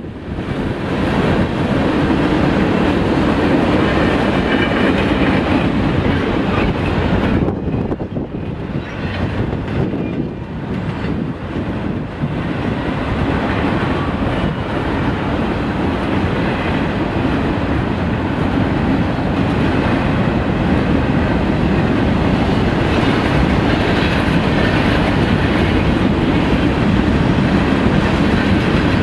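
Freight train cars rolling past at speed: a steady, loud rumble of steel wheels on the rails, easing briefly about eight seconds in.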